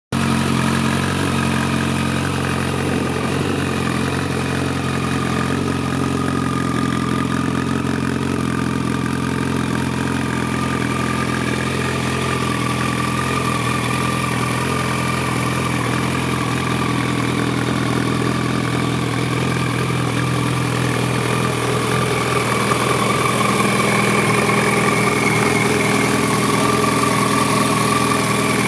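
Yamaha FZ1S's 998 cc inline-four engine idling steadily through a Lextek aftermarket exhaust, a little louder in the last several seconds.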